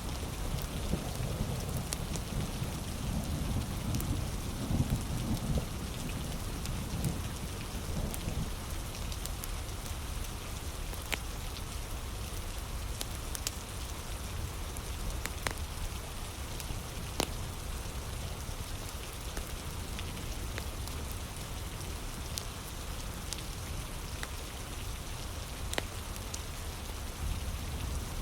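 Steady heavy rain with a low rumble of thunder that fades out over the first several seconds. Scattered sharp pops of a crackling wood fire sound over the rain.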